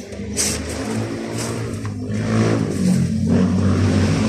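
A car engine running, its pitch rising and falling a little as it is revved.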